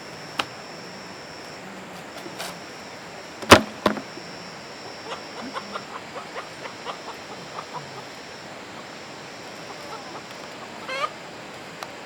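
Chickens clucking on a farm, with a loud sharp knock about three and a half seconds in, a second smaller one just after, a run of short chirps after that and a louder call near the end.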